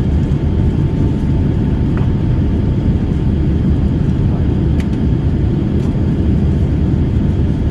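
Airliner cabin noise: a loud, steady low rumble of the jet engines and airflow, with a faint steady whine above it.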